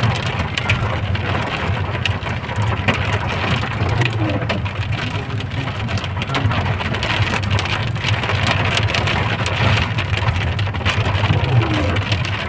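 Heavy rain mixed with hail: a dense, steady patter with many sharp ticks of hailstones and drops striking hard surfaces, over a steady low rumble.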